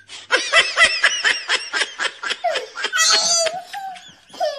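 Hearty laughter: a quick run of ha-ha pulses, about six a second, then a higher-pitched laugh a little after the three-second mark.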